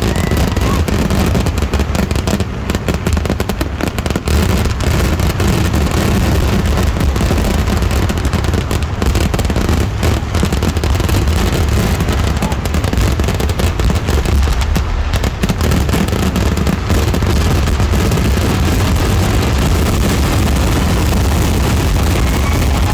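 Fireworks barrage: firecrackers going off in rapid succession, so dense that the bangs run together into a continuous loud rumble.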